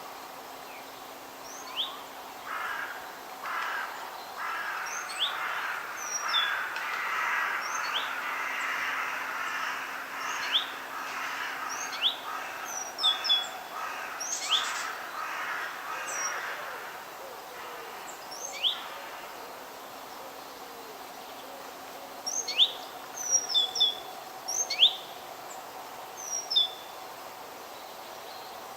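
Wild birds calling in a forest, with many quick, sharp falling chirps throughout. A denser, harsher chattering runs through the first half, over a steady background hiss.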